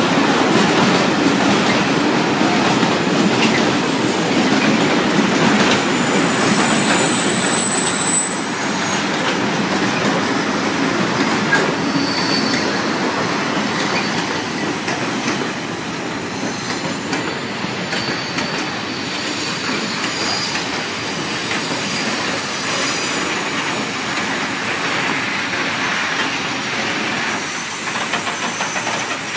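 Freight train of dump wagons rolling slowly past close by: a steady rumble and clatter of wheels on the track, with thin high-pitched wheel squeal coming and going.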